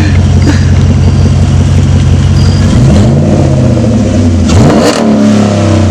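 Car engine running steadily, revved twice, its pitch rising and falling about three seconds in and again near the end.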